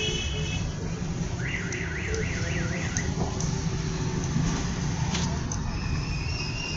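Steady rumble of road traffic. About one and a half seconds in, a warbling electronic tone sweeps up and down about three times a second for a second and a half, like a car alarm or a siren-style horn. Near the end a steady horn-like tone sounds.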